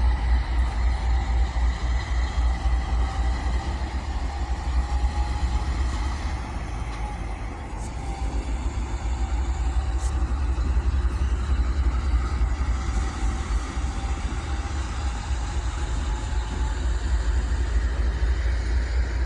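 Train rolling by with a steady low rumble and faint steady tones above it.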